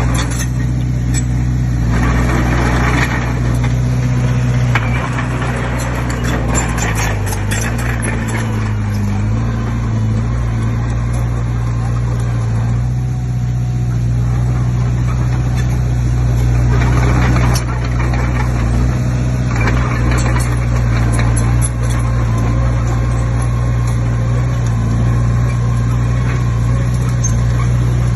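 Heavy diesel engine of earthmoving machinery running steadily, its pitch dipping briefly and recovering about eight seconds in, with bouts of rattling and scraping over it.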